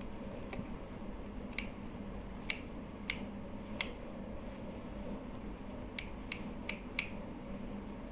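Small plastic hair-trimmer parts being handled and fitted together: about nine light, sharp clicks and taps at uneven intervals, several close together around six to seven seconds in, over a faint steady hum.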